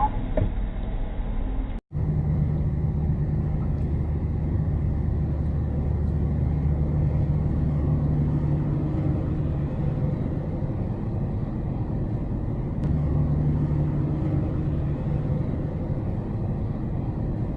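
A car driving, heard from a dashcam: a steady road rumble and a low engine hum. The sound breaks off for an instant about two seconds in and picks up again.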